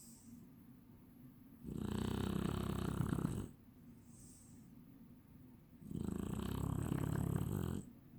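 Chinese Shar-Pei dog snoring in its sleep: two long, rattling snores of about two seconds each, with a short breathy hiss between them.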